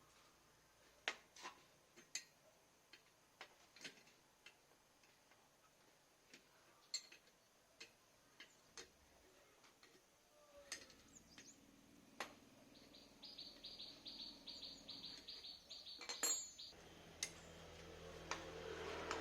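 Faint, scattered clicks and light taps, with a quick run of high chirping pulses, about four a second, starting some thirteen seconds in and lasting a few seconds.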